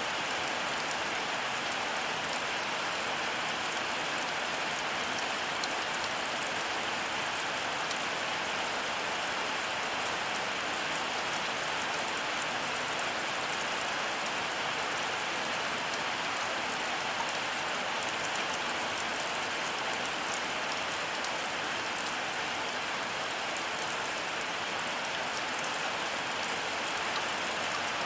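Heavy rain falling steadily: an even hiss of rain with a fine patter of drops, no change in strength.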